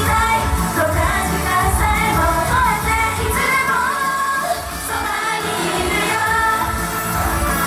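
Japanese idol pop sung live by female idol singers over a loud backing track with a heavy beat. The bass and drums drop out for about a second, roughly four seconds in, while the singing goes on, then the beat returns.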